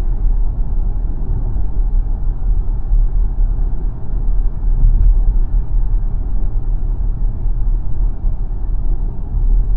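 Xpeng G9 Performance electric SUV on the move: a steady low rumble of tyre and road noise, with no engine note.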